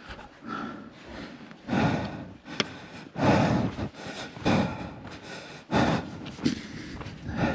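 A hiker's footsteps on the way down the trail, irregular steps about one a second.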